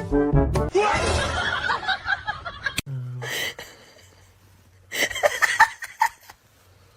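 A short burst of brass music cuts off, then people laugh in short bursts, first after about a second and again about five seconds in.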